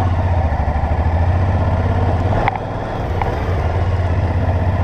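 Motorcycle engine running at low revs with an even, steady pulse. There is a short click about halfway through, with a brief dip in the engine sound, and another click a moment later.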